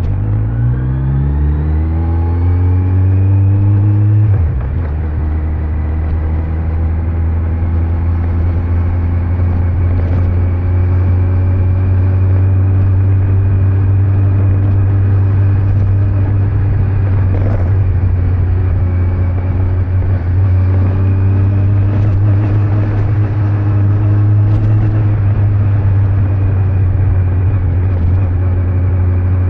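Kawasaki Z900's inline-four engine under way, its note rising as the bike accelerates for the first few seconds, easing briefly about four seconds in, then holding a steady cruising note that creeps slowly higher, over road noise.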